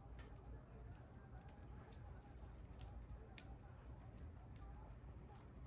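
Bonfire crackling, with sharp pops scattered irregularly, the loudest a little over three seconds in, over a steady low rumble.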